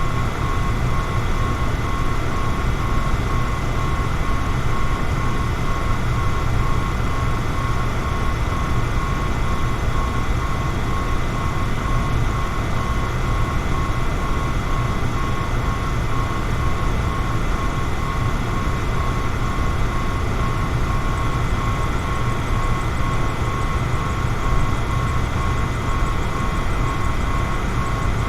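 Electric fan running steadily: a deep, even rush of air with a faint steady high tone above it.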